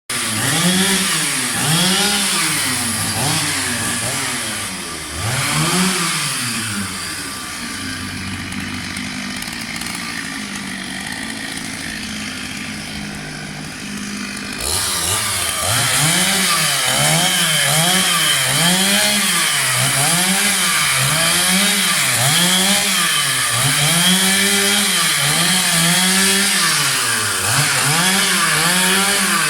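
Chainsaw running, its engine pitch rising and falling about once a second as it revs. For several seconds in the middle it runs steadier and quieter before the revving resumes.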